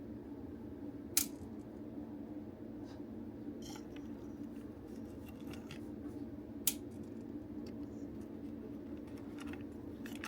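Light clicks and taps of small plastic toy parts being handled during disassembly, with two sharper clicks about a second in and about two-thirds of the way through, over a steady low hum.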